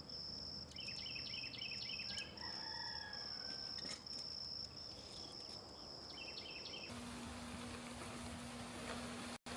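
Night insects trilling, a steady high-pitched buzz with short breaks, joined twice by quick runs of repeated chirps. About seven seconds in, the sound changes abruptly to an even hiss with a low steady hum.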